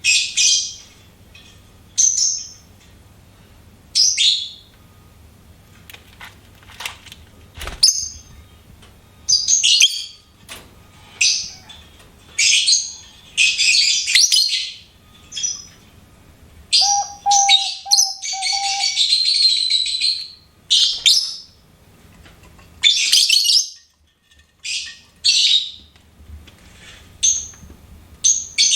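Pet lovebird giving short, sharp, high-pitched chirps every second or two, with a longer run of busy chattering about two-thirds of the way in. A few faint clicks sound between the calls.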